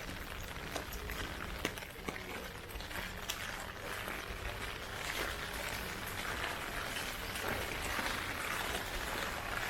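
Heavy rain falling steadily, a continuous hiss with scattered sharp drop taps, growing a little stronger about halfway through.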